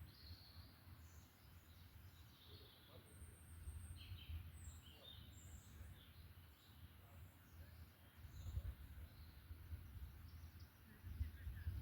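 Faint forest birdsong: several birds giving short, high chirps and calls, scattered and overlapping, over a low rumble that swells twice, about two-thirds of the way through and near the end.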